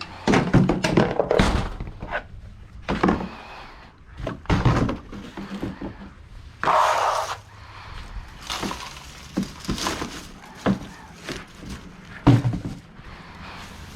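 A garbage can and other household things being handled and moved: an irregular run of knocks and thuds, with a longer scraping rush about seven seconds in and one last sharp knock near the end.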